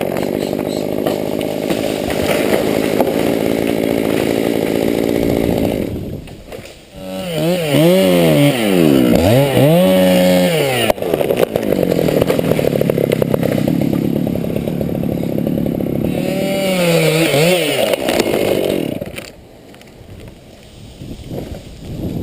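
Chainsaw running, its engine note held steady for long stretches as it cuts, with two spells of revving up and down between cuts. Near the end the sound drops away to a much quieter level.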